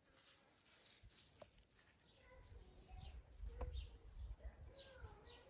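Faint bird chirps, short falling notes repeating about twice a second, with two soft knocks.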